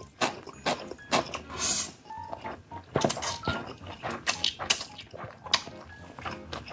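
Close-up eating sounds: noodles being slurped and chewed, with many short wet mouth clicks and smacks.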